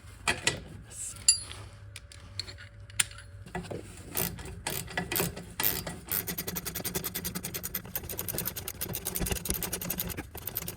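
Scattered metal clinks and knocks, then from about six seconds in a ratchet wrench clicking fast and evenly as exhaust fasteners are done up.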